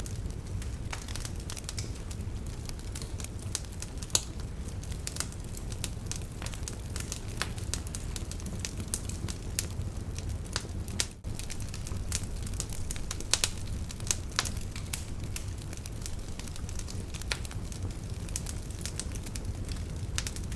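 Log fire crackling in a fireplace: frequent sharp pops and snaps over a steady low rumble of the flames. There is a louder pop about four seconds in and a pair more near the middle, and the sound dips for an instant about eleven seconds in.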